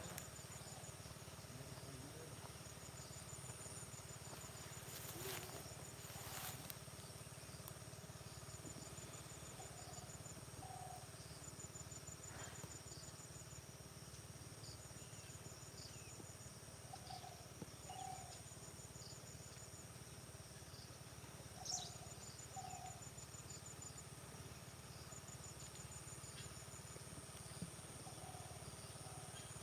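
Faint field insects: a steady high-pitched drone with a cricket-like rapid pulsed chirp that repeats about every three seconds. Faint short calls come now and then, and there are a couple of brief sharp clicks.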